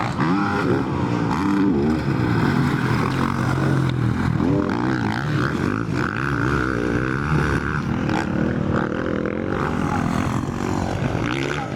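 Motocross bike engines revving hard, their pitch rising and falling over and over as the bikes accelerate and shift, with several engines overlapping.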